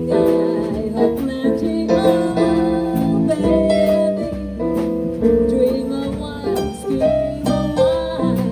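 A live band playing a song: a melody line over chords and a bass line, played without a break.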